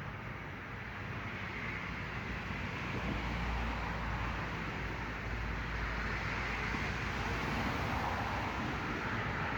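Steady outdoor traffic noise from nearby roads, with a passing vehicle's low rumble swelling from about three seconds in and fading a few seconds later.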